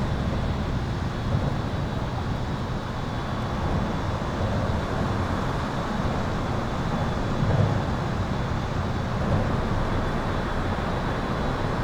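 Highway traffic heard from under an overpass: a continuous rumble and tyre noise that swells gently as vehicles pass. A faint steady high-pitched tone runs through it.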